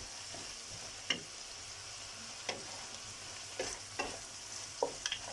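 Vegetables and seafood sizzling steadily as they fry in a pan, with a spoon stirring in the spices and knocking against the pan about seven times.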